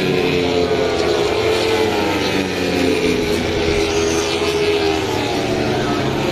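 MotoGP racing motorcycle engines at high revs. Several overlapping engine notes rise and fall in pitch as the bikes accelerate, shift and pass.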